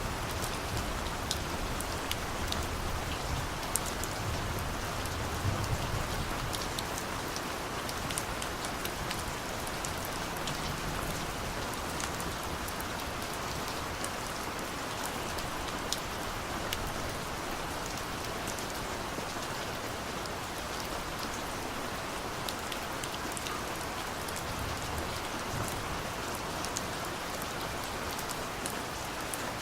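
Steady rain falling, with scattered individual drops ticking. A low rumble of distant thunder dies away over the first few seconds.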